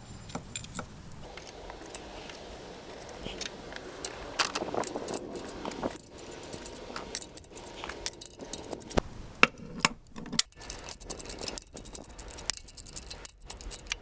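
Small metal objects clinking and rattling: a run of sharp clicks and jingles that becomes busier and louder from about halfway through.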